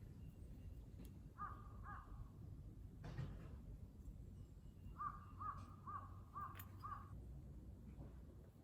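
A crow cawing in the distance: two caws, then a quick run of five. A single soft knock falls between them.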